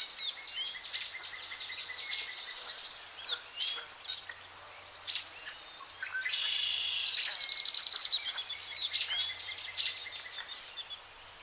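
Several songbirds calling over one another with short chirps and whistled notes. A louder, fast trill runs from about six to eight seconds in.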